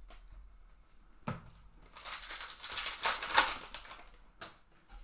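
Trading-card pack wrapper crinkling and tearing for about two seconds as a pack of baseball cards is opened, with a sharp tap before it and a click after.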